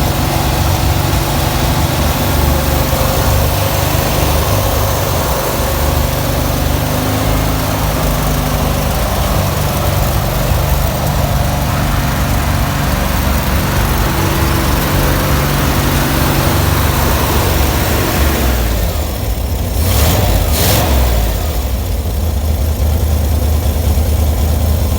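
An old water truck's carbureted gasoline engine running steadily on choke, freshly started after a carburetor rebuild. About three quarters of the way through, the engine sound changes briefly and two sharp clicks are heard about a second apart.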